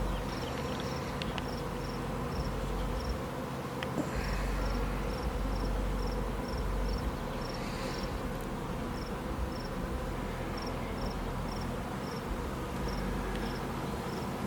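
Honey bee swarm humming steadily, with a cricket chirping at about three chirps a second.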